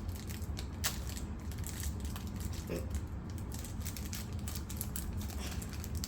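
Plastic candy bar wrapper crinkling in irregular crackles as it is handled and pulled at, still not torn open, over a steady low hum.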